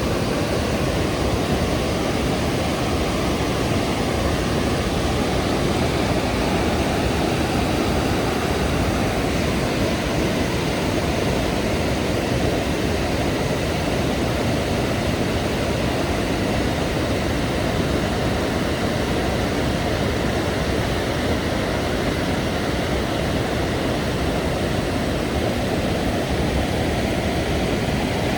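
Rhine Falls waterfall: a loud, steady rush of falling water, strongest in the low range, with no breaks.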